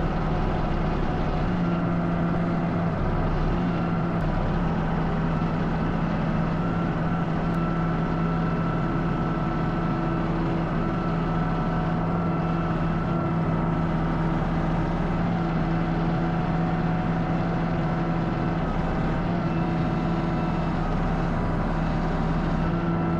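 An engine running at a steady speed: a constant, even drone that cuts off abruptly at the end.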